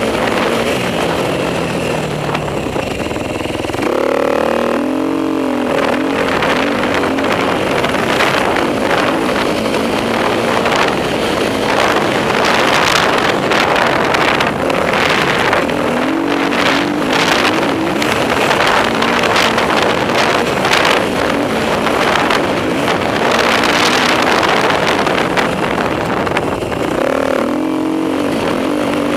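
Enduro motorcycle engine revving hard as the bike is ridden around a motocross track, the pitch rising and falling with the throttle and gear changes, climbing sharply about four seconds in and again near the end.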